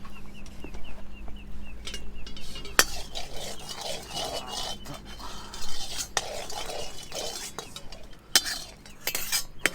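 A metal utensil clinking and scraping against cookware, with irregular sharp knocks and some stirring.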